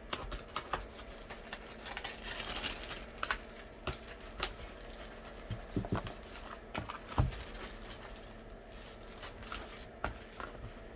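Scattered light clicks and knocks of a tumbler and craft supplies being handled and set down, at irregular intervals, the loudest about seven seconds in.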